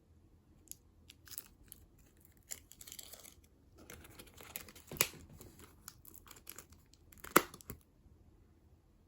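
Snack packaging being torn open and handled, with irregular crinkling and tearing and two sharp snaps, one about five seconds in and a louder one about two seconds later.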